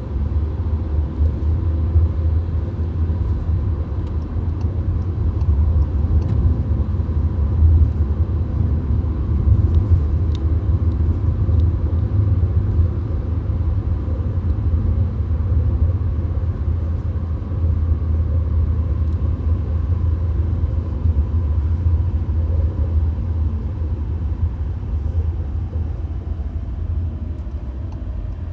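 Steady low rumble of a VW Golf driving at highway speed, heard from inside the car: road and engine noise with no change in pace.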